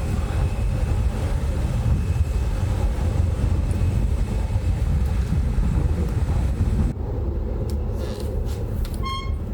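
Steady low rumble of wind buffeting the microphone outdoors in cold weather. A short high-pitched beep sounds near the end.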